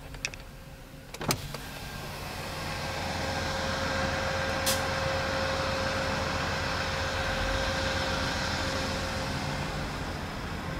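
Amtrak passenger train passing close by, heard from inside a car as a steady rushing rumble with a faint hum, building over the first few seconds. A sharp click comes about a second in.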